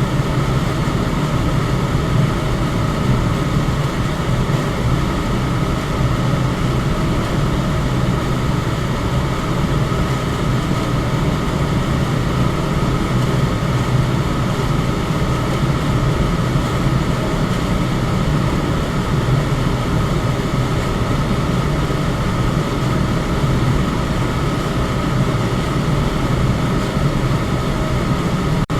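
Electric fan running steadily: an even rush of air with a low hum, and a faint steady tone above it.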